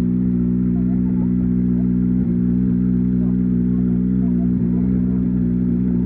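Rally car engine idling steadily at close range, with no revving.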